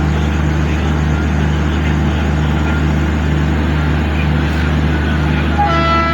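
Steady low rumble of a train at a station. A multi-tone locomotive horn starts sounding near the end.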